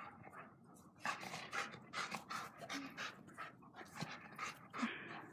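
A dog panting in quick, short breaths, about two a second, starting about a second in; it is winded from rough play-wrestling with another dog.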